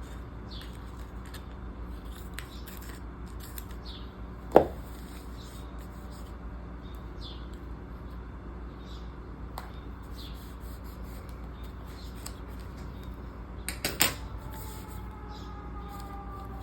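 Paper stickers and planner pages being handled: faint rustles and small ticks as stickers are lifted and pressed down. There is a sharp tap about four and a half seconds in and a short cluster of clicks near the end, over a steady low hum.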